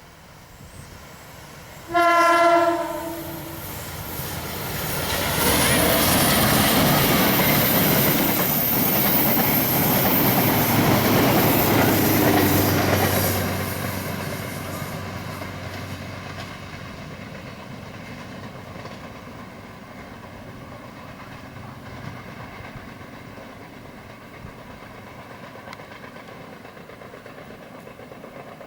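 A train's horn sounds once briefly. Then a locomotive-hauled train passes close by: loud wheel-on-rail noise with a high hiss, which holds for about eight seconds and then fades slowly as the train moves away.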